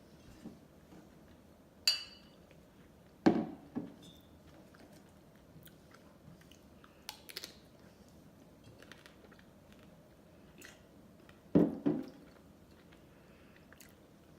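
Close-miked ice cream eating: a few sharp mouth sounds in pairs, as from biting and smacking, and one ringing click from the spoon, with quiet between.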